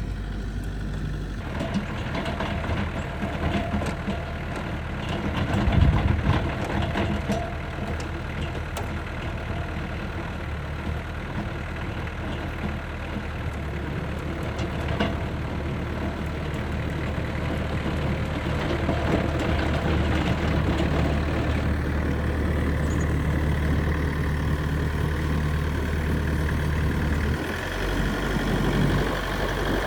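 Snowblower engine running steadily, its note shifting about a second in and again near the end.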